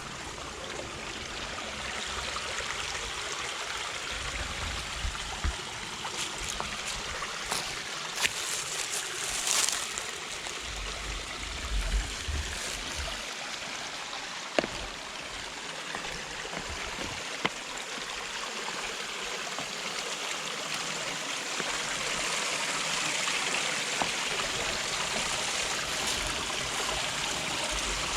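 Mountain stream flowing and trickling over rocks, with a few brief knocks.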